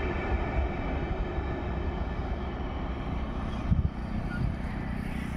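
Empty LHB passenger coaches rolling past on the rails: a steady low rumble of wheels on track, with one short thump about three and a half seconds in as the last coach goes by.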